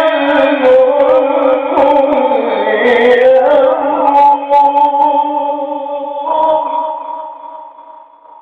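A man's voice chanting Quran recitation in a melodic, ornamented style, drawing out one long note that wavers at first, then settles and fades away near the end.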